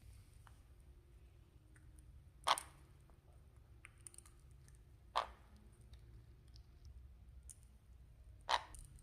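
Sun conure eating a treat, its beak cracking the food in three sharp cracks about every three seconds, with faint nibbling clicks between.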